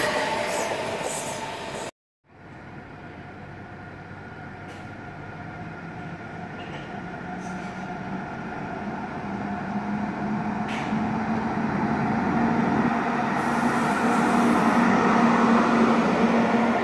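For the first two seconds an ICE high-speed train rolls out with wheel noise. After a sudden break, a red DB electric locomotive approaches and passes close by, its steady motor hum and wheel noise slowly growing louder to a peak near the end.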